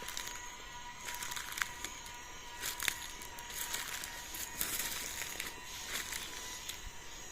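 Footsteps crunching irregularly through dry forest leaf litter, over a steady chorus of insects holding a constant high buzzing tone.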